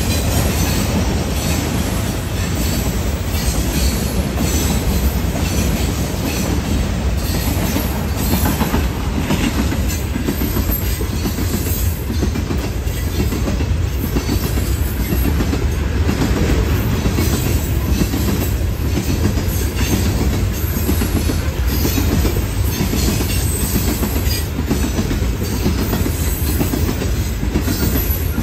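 Florida East Coast Railway manifest freight train's hopper cars rolling past close by, steel wheels clacking continuously over the rail joints, with a steady low rumble.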